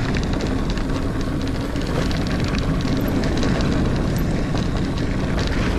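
Niner Air 9 RDO 29er mountain bike rolling along dirt singletrack: a steady rumble of tyres on the trail with a constant run of small clicks and rattles from the bike.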